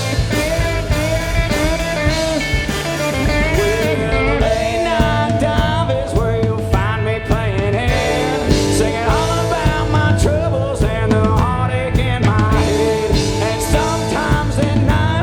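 Live country-rock band playing an instrumental passage between sung lines, a lead instrument bending notes over the rhythm section.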